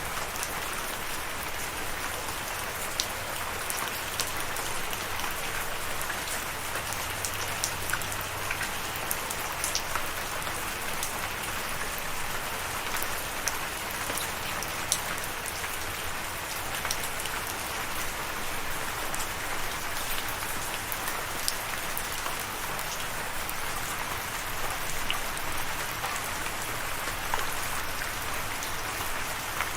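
Steady rain falling, with scattered sharp drops and drips standing out from the even patter.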